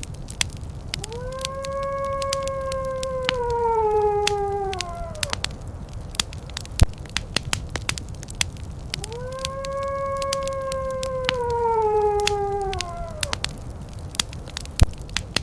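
Fireplace crackling with frequent sharp pops over a low rumble, while a wolf howls twice. Each howl is one long call of about four seconds that rises, holds, and slides down at the end; the first begins about a second in and the second about nine seconds in.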